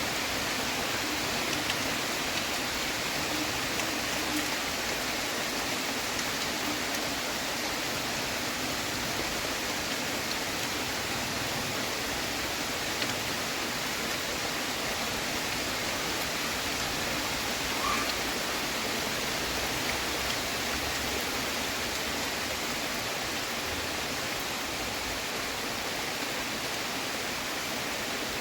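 Heavy rain falling steadily: an even hiss of water.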